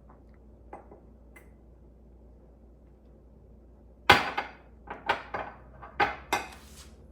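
Kitchen utensils knocking sharply against a mixing bowl while flour is measured out: a couple of faint clicks at first, then a quick run of about eight knocks starting about four seconds in.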